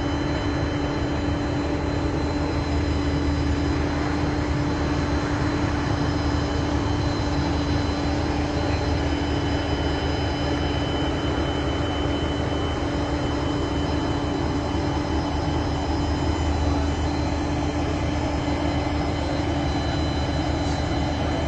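Steady drone of running machinery with a constant hum and low rumble.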